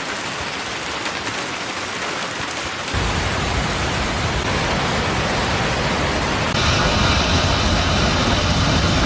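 Steady rushing water, an even noise without pitch. It jumps louder and deeper at a cut about three seconds in and changes again at another cut near two-thirds of the way through.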